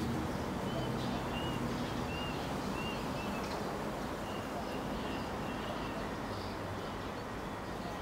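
Small bird chirping: a series of short, high, arched chirps, about one every two-thirds of a second over the first few seconds, then a few more flat short notes in the middle, over a steady background rumble.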